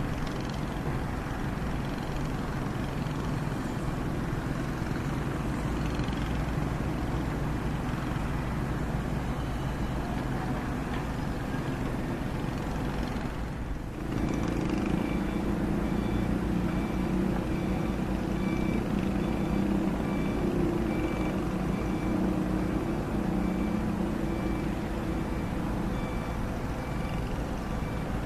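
Komatsu hydraulic excavator's diesel engine running steadily under load as it works. About halfway through the sound shifts abruptly, and a repeating high-pitched beep sounds over the engine from then on.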